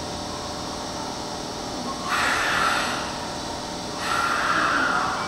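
Commuter train at a station platform: two short bursts of compressed-air hiss, each about a second long and starting and stopping sharply, over a steady background rumble.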